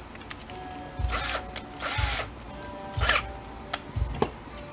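A hand wrench turning a nut off the end of a metal roller shaft: three scraping strokes about a second apart, each with a short squeak, then a few lighter knocks and clicks near the end.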